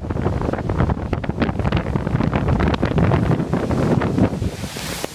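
Gale-force wind buffeting the microphone in loud, irregular gusts, over storm waves on the lake; a hiss swells near the end.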